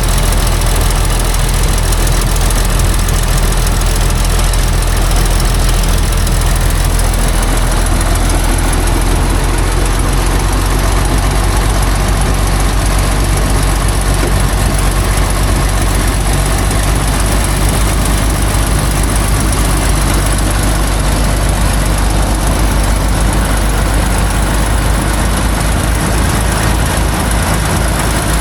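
Heavy diesel logging truck engine running steadily at a low, even pace, a loud constant drone with no revving.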